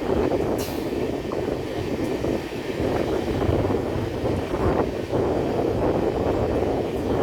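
Train running by on the track: a steady rumble of wheels on rails with faint clicks.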